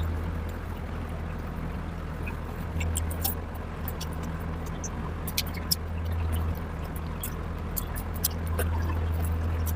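Close-up eating sounds: wet chewing and lip smacks as a short, irregular series of clicks, over a steady low hum.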